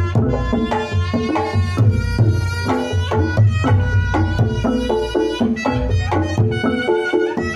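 Reog Ponorogo ensemble music played steadily: kendang hand drums drive a quick, busy rhythm of low strokes, with pitched melody notes over them.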